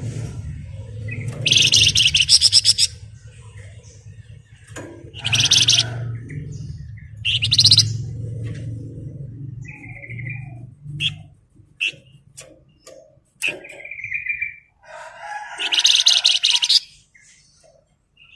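A songbird of the kind Indonesian bird-keepers call flamboyan singing in loud bursts of rapid, dense trilling (ngebren), four bursts of a second or so each, with short clear whistled notes between them.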